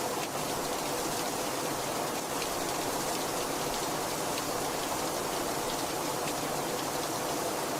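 Steady heavy rain pattering on a surface, with individual drops ticking now and then.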